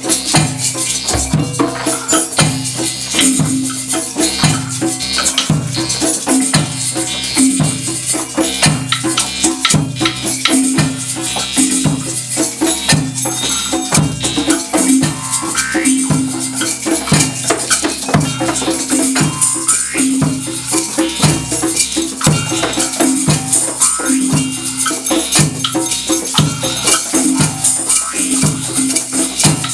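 Drum-and-percussion ensemble playing: shakers and rattles rustle continuously over a low drum beat that falls about once a second.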